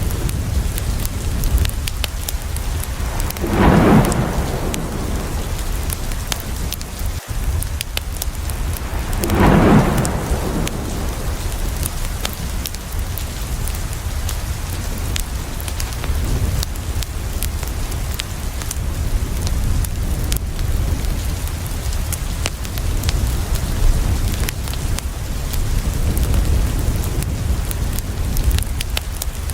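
Steady heavy rain with a constant low rumble of thunder. Two louder rolls of thunder swell and fade about 4 and 10 seconds in.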